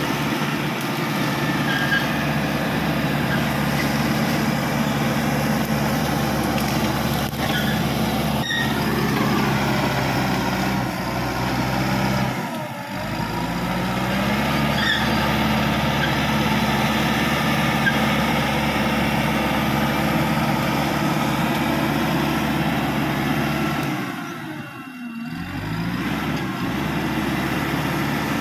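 Caterpillar D5K XL bulldozer's diesel engine running steadily under load. Twice, about twelve seconds in and again near the end, the engine note briefly drops and then climbs back up.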